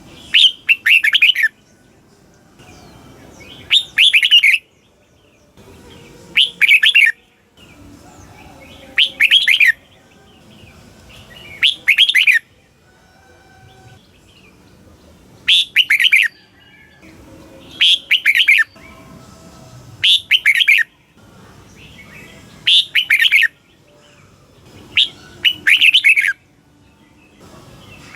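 Red-whiskered bulbul singing: short, bright song phrases of about a second, each a quick run of two or three notes, repeated every two to three seconds.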